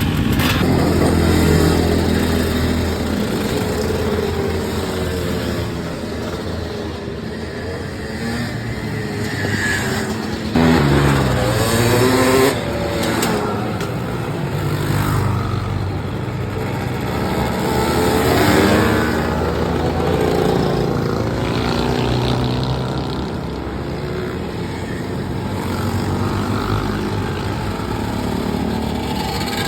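Dirt bike engine running and revving, its pitch rising and falling over and over as the throttle opens and closes. It is loudest for about two seconds near the middle.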